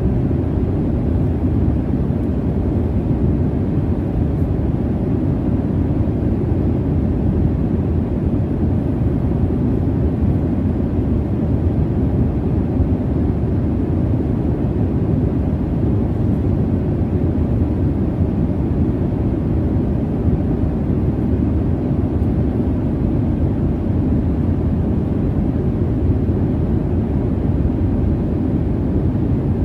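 Airplane cabin noise from the jet engines: a steady, unbroken low rumble with its weight in the bass and little treble, never changing.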